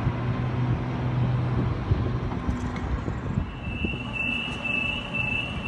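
Sydney Trains Series 1 Waratah electric train standing at the platform, its equipment giving a steady low hum. About three and a half seconds in, the door-closing warning starts: a high beep repeating about twice a second, signalling the doors are about to close before departure.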